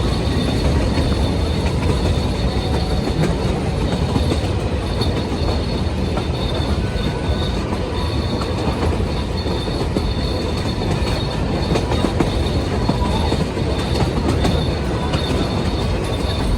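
Puffing Billy narrow-gauge steam train's carriage running along the track, heard from on board: a steady rumble of wheels on rails with a thin, steady high-pitched whine over it.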